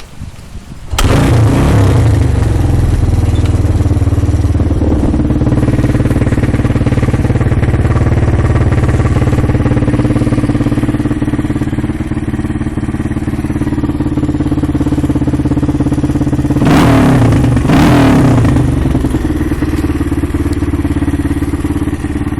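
1990 Honda XR200R's air-cooled single-cylinder four-stroke engine starting about a second in and idling steadily, with two short blips of the throttle near the end.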